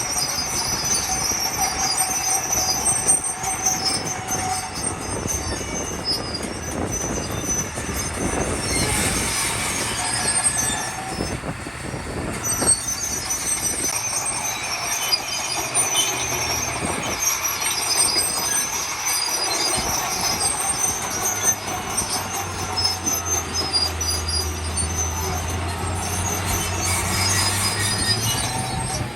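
Heavy earthmoving machinery working a stone fill: continuous high metallic squealing and grinding over diesel engine rumble. A steady low engine note grows stronger for the last several seconds.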